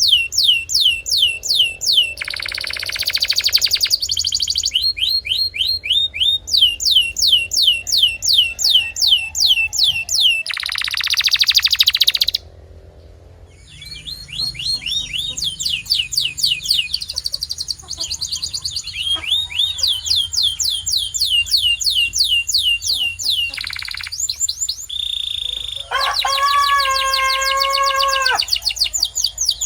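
Canary singing a run of song tours: fast trills of repeated falling notes, two buzzy rolls, a short pause around the middle, and a lower held note near the end.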